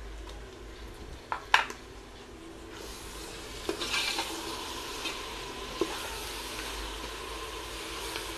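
Ginger-garlic paste and sliced onions sizzling in hot oil in an aluminium pressure cooker as a steel spoon stirs them, with the spoon scraping the pot. Two sharp knocks of the spoon about a second and a half in, and the sizzling grows louder about three seconds in as the paste is worked into the oil.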